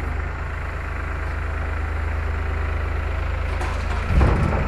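Diesel truck engine idling steadily with a fast even pulse. About four seconds in there is a brief louder low surge or thump.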